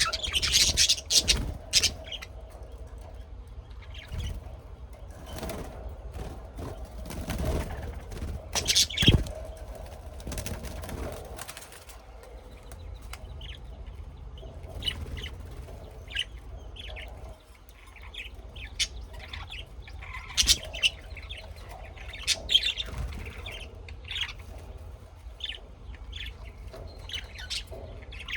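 Birds chirping with short, sharp calls, with louder bursts of wing flapping in the first couple of seconds and again about eight seconds in.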